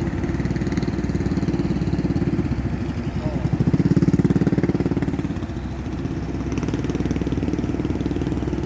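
Excavator's diesel engine running with a steady low throb; it grows louder for a second or two about four seconds in, then settles back.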